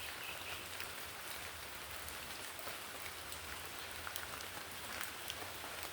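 Steady rain falling on rainforest foliage, an even hiss with many scattered drips and patters.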